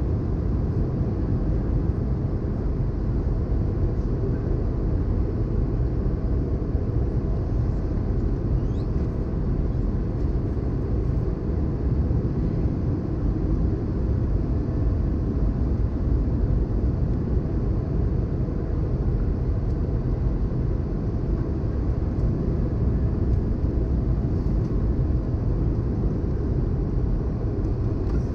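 Steady cabin noise inside an Airbus A320-214 airliner: an even, low rumble of its engines and airflow that holds at one level throughout.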